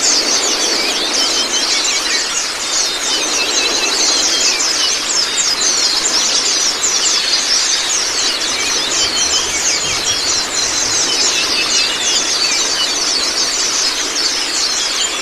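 Many white-eyes (pleci, Zosterops) singing together in fast, overlapping high chirps and twitters, over a steady sound of running water.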